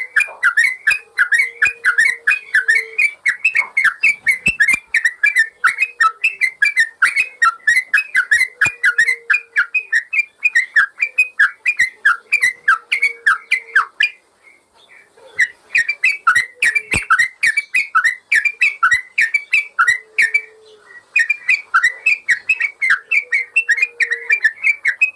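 Yellow-vented bulbul (trucukan) song: a rapid, unbroken run of short, sharp chirping notes, breaking off briefly a little past halfway before starting again.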